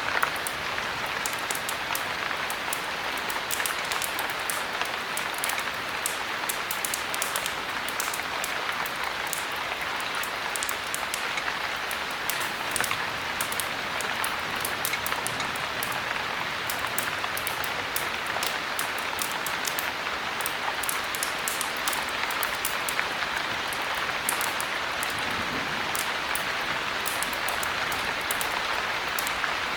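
Steady heavy rain, a dense even hiss, with many small sharp ticks scattered all through it.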